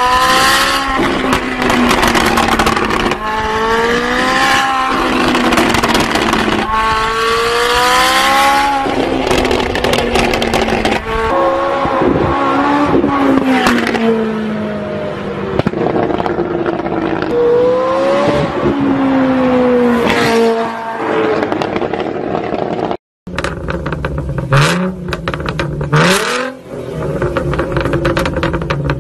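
Car engines revving hard through loud exhausts, the pitch repeatedly climbing and dropping back. After a short cut about 23 s in, another car gives a few short, sharp throttle blips.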